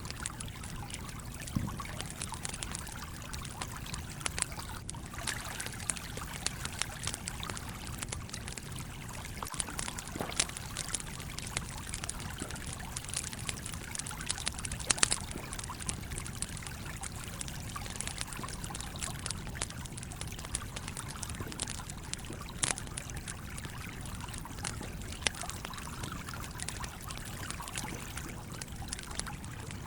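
Steady flow of a trickling stream with the irregular crackle and pops of a campfire, a few pops louder than the rest.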